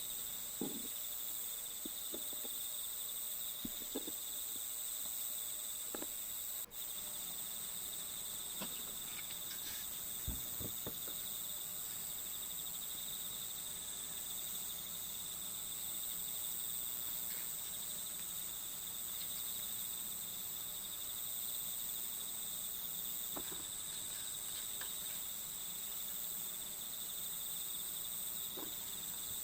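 Steady chorus of chirping crickets, with a few faint taps scattered through it.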